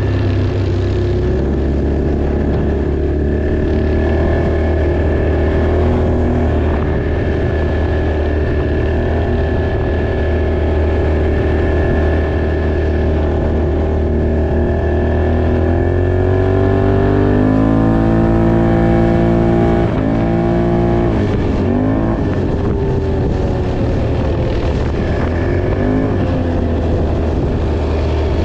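ATV engine running under way, revving up about two-thirds of the way through, then easing off and picking up again twice near the end.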